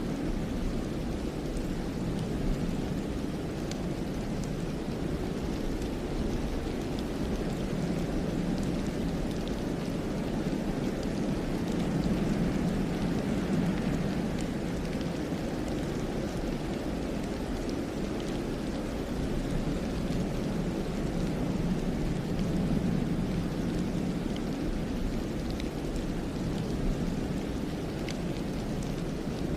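Steady wind blowing through pine trees, swelling and easing slowly every few seconds, with a few faint scattered ticks.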